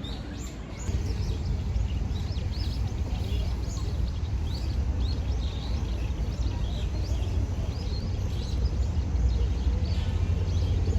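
Small birds chirping repeatedly in quick short calls, over a steady low rumble that comes in about a second in.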